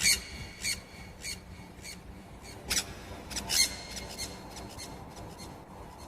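A bird giving a series of short, sharp calls, loudest at the very start and again about three and a half seconds in.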